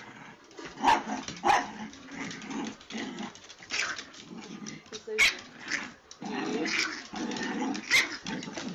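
Puppies yapping, with short sharp yaps about a second in, a couple more in the middle, and one near the end.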